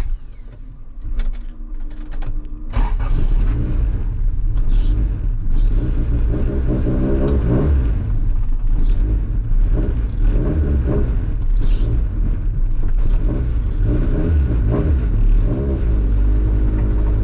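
Honda Civic engine and road noise heard inside the cabin, which does not yet have its sound-deadening mat. The engine runs steadily at first, then about three seconds in the car pulls away and accelerates into a loud, low rumble.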